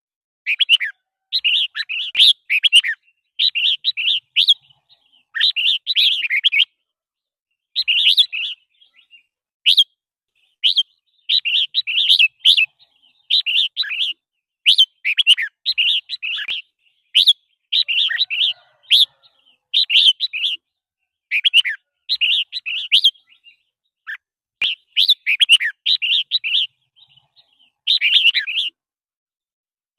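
Red-whiskered bulbul singing: short, bright chirping phrases repeated about once a second with brief gaps between them.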